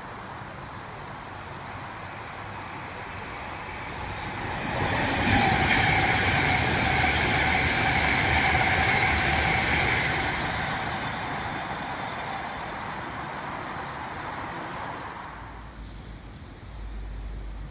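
Electric passenger train passing along the platform, a rushing rail noise with a steady whine over it. It builds about four seconds in, stays loudest for about five seconds, then fades away.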